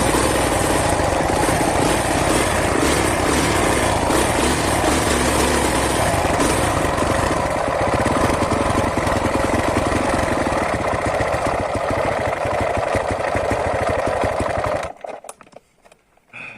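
Husqvarna 450cc enduro motorcycle's single-cylinder four-stroke engine running steadily and loud, cutting off suddenly near the end.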